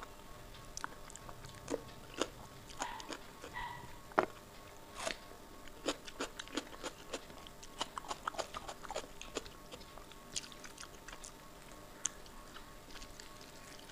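Close-up wet chewing and lip-smacking of a mouthful of rice and kadhi: a run of sharp, moist clicks, busiest in the middle, over a faint steady tone.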